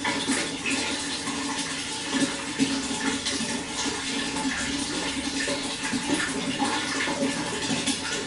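Running water flowing and splashing steadily, with small irregular splashes through it.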